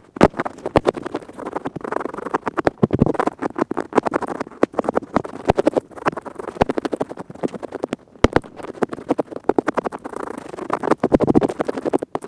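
Earpick scraping fast inside an ear right at the microphone: a steady run of quick, dry scratching strokes with the odd sharper click.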